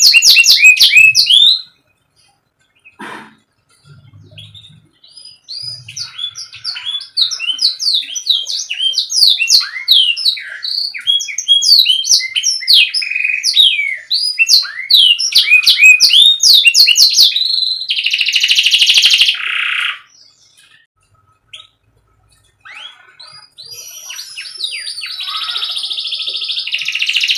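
Canary singing in fast chirps and trills, with a buzzy rolled phrase near two-thirds of the way through. The song stops twice for a few seconds.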